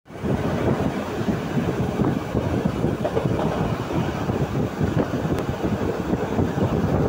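Passenger train running at speed, heard through an open carriage window: a steady rumble of wheels on rail with continuous rattling.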